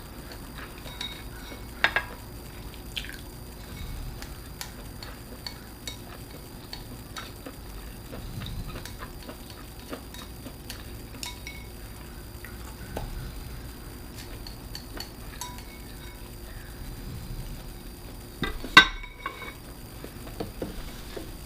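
Cutlery clinking and scraping against a dish and bowl during eating, in scattered small clicks, with a sharp clink about two seconds in and a louder clatter near the end.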